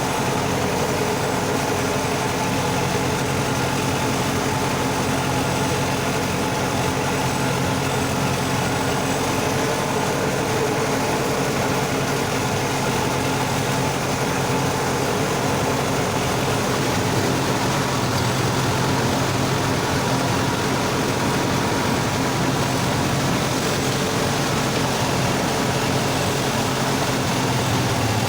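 Sonalika tractor's diesel engine running steadily under load while pulling a rotavator through deep mud, its hum unbroken and even.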